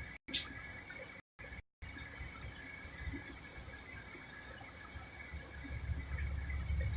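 Quiet outdoor background with a steady high-pitched drone and a low rumble that builds toward the end. The sound cuts out completely three times in the first two seconds.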